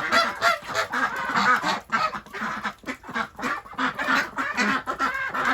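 A flock of domestic ducks and geese calling over one another in a continuous din of quacks and honks: the birds are complaining loudly at having their mud taken away.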